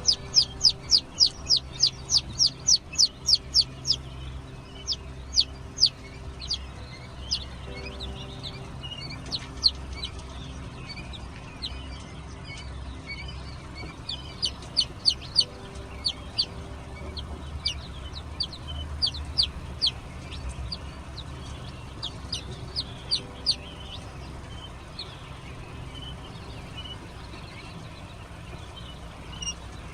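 Chicks peeping: runs of rapid, high-pitched peeps, each falling in pitch, coming in bunches with pauses between, over a low steady hum.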